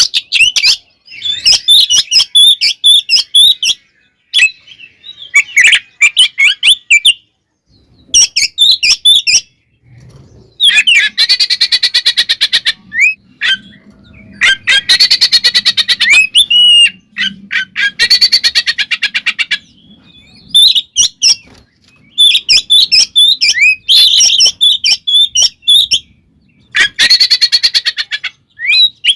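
Oriental magpie-robin (kacer) singing loud, varied phrases broken by short pauses. Several times it breaks into long, fast, harsh rattling chatters, the agitated fighting song that keepers play to provoke other magpie-robins.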